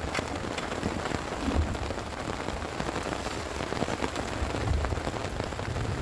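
Heavy rain falling steadily, with many separate drops striking a surface, over a low rumble that swells now and then.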